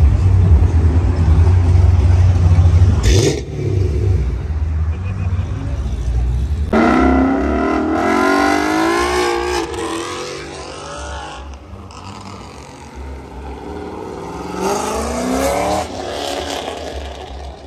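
Performance car engines: a deep, loud rumble from a passing Chevrolet Camaro ZL1 for the first three seconds, cut by a brief sharp sound. Then a car accelerates away with its engine pitch rising and falling about seven seconds in, and another car revs and pulls away near the end.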